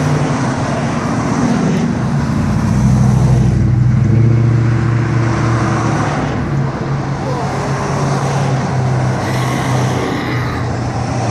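Classic car engine running as the car cruises slowly past, loudest about four seconds in and then easing off.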